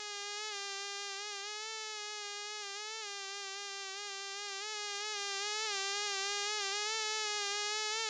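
Honeybees buzzing: one continuous, slightly wavering buzz that grows a little louder in its second half and cuts off abruptly at the end.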